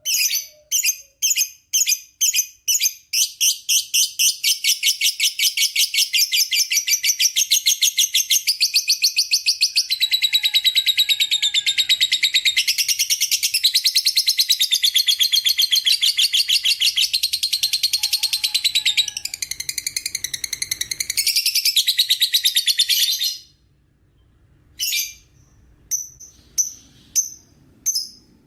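Lovebird's long 'ngekek' trill: separate high chirps quicken into a fast, unbroken chatter lasting about twenty seconds, which stops abruptly. A few scattered chirps follow near the end.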